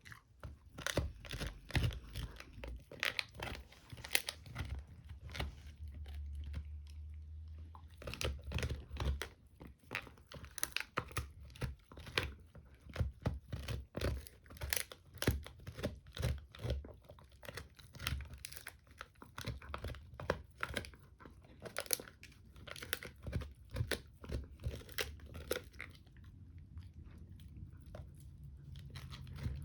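A dog gnawing and crunching on a rawhide bone: an irregular, dense run of crunches, tearing and clicks from her teeth.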